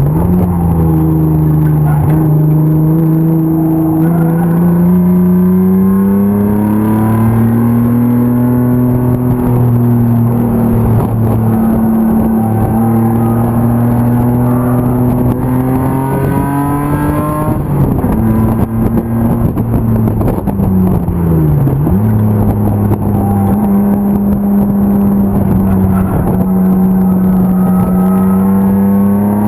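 BMW E36 325's M50 inline-six engine at racing speed on track. The engine note climbs and falls with throttle and gear changes, with a sharp drop and recovery at the start, another just past halfway and a third about three-quarters through.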